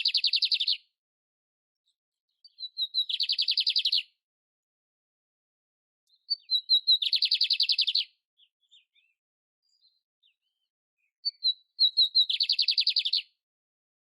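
Canário-império singing in repeated phrases. Each phrase is a few quick introductory notes that run into a fast, buzzy trill lasting about a second, and a new phrase comes every four to five seconds. The first trill is already under way as the sound begins, and three more full phrases follow, with a few faint single notes between them.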